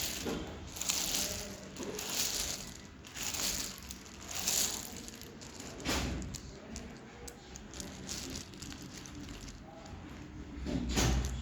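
Lumps of dry clay being crushed and crumbling, with crunchy bursts about once a second at first, then fainter crackles and ticks, and one more loud crunch near the end.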